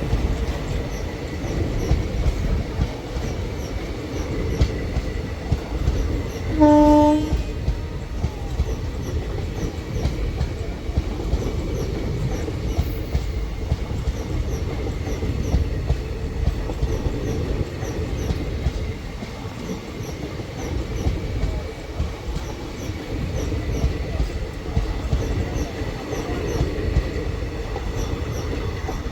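Train rolling past on the track, its wheels and coaches rumbling steadily, with a faint thin wheel squeal on the sharp curve. A short horn blast sounds about seven seconds in.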